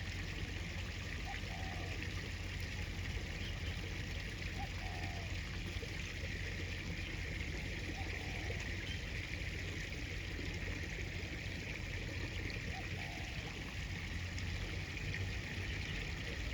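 Steady, even rush of river water flowing around the angler, with no sudden events.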